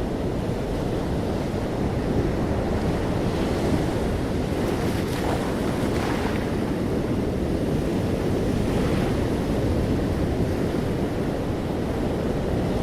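Sea waves washing onto a shore in a steady low rush, with a brighter hiss of breaking surf swelling about halfway through and fainter swells before and after.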